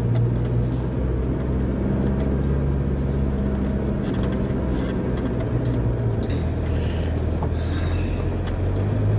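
Land Rover engine running steadily, heard from inside the cab as the vehicle drives along the track, its note shifting a few times, with occasional light knocks.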